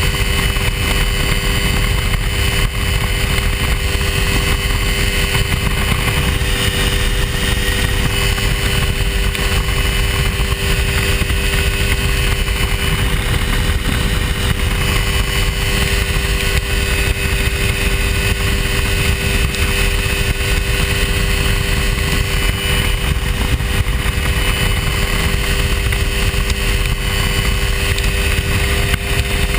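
Hy-Tek Hurricane ultralight's engine and propeller droning at a steady cruise in flight, with wind rumbling on the microphone.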